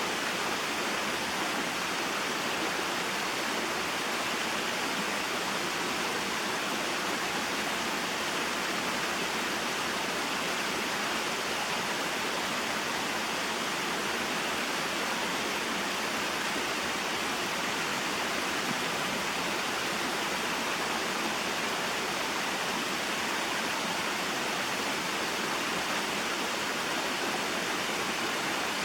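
Small mountain waterfall and stream flowing over rocks: a steady, even rush of water.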